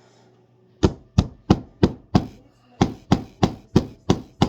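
Hammer striking nails into a wooden birdhouse: quick, even blows about three a second, in two runs with a short pause just after two seconds.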